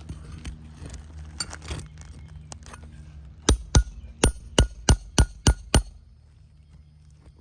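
Shingle hammer striking a metal nail puller to drive it under a roofing nail in an asphalt shingle. A few light taps come first, then about halfway through eight quick, ringing metal-on-metal blows, about three or four a second.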